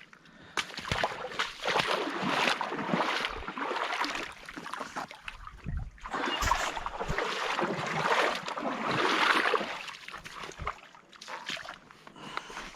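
Water splashing and sloshing in shallow water, in two long spells of a few seconds each that die down near the end.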